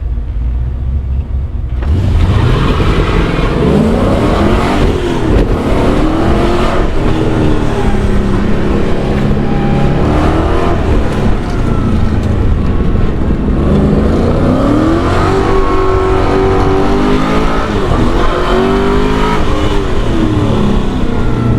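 LS V8 engine of an LS-swapped BMW E36 idling, then launching about two seconds in. It revs up and down repeatedly as the car is driven hard through an autocross course.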